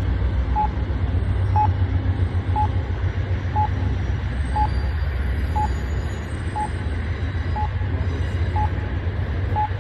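Amtrak train crossing a bridge: a steady low rumble, with a short high electronic beep repeating about once a second.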